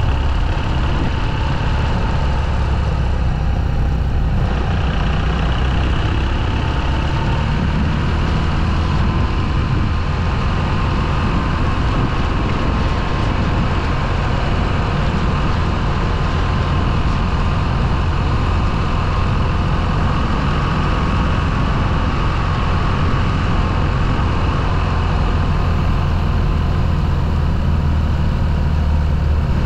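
Motorcycle engine running steadily while riding: a constant low drone with a faint whine that drifts slowly up and down in pitch.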